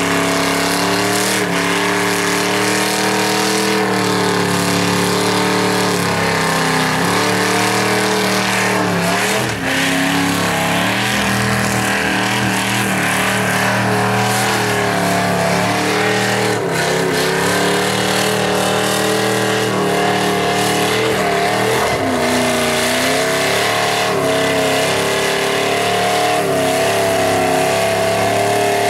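Mazda truck's V8 engine held at high revs in a burnout, the revs wavering and dropping briefly three times before climbing again, over the steady rushing noise of spinning tyres.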